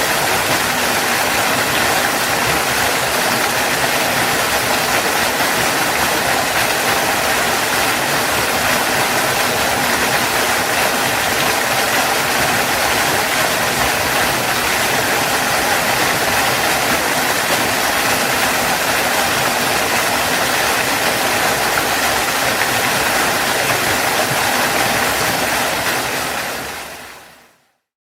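Waterfall rushing steadily, a loud even roar of falling water, fading out near the end.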